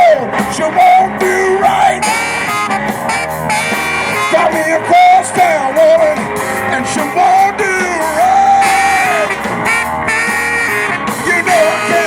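Live rock band playing: a singer's voice over electric guitar and band.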